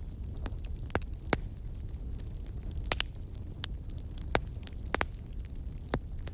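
Wood campfire crackling: sharp, irregular pops and snaps about once a second over a low, steady rumble of burning.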